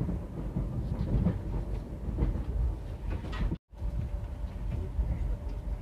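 Passenger train running along the track: a steady low rumble with scattered wheel clicks over the rails. The sound cuts out for a split second a little past halfway.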